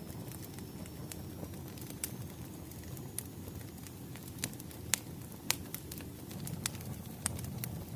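Wood fire crackling: a steady low rumble of burning firewood with scattered sharp pops and snaps, the strongest about five seconds in.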